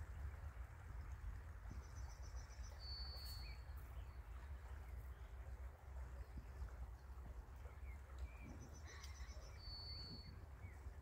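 Quiet outdoor ambience, a low steady rumble and hiss, with a small bird calling twice about six seconds apart. Each call is a quick high trill followed by a thin held whistle.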